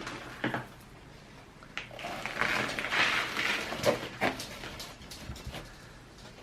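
Repotting handling noise: potting soil rustling and scraping as it is worked around a cactus in its pot, with scattered knocks and clicks from the pot and tools.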